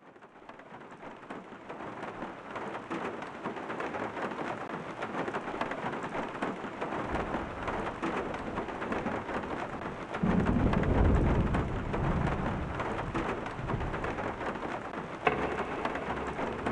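Steady rain fading in from silence, with a low roll of thunder about ten seconds in. A single sharp click sounds near the end.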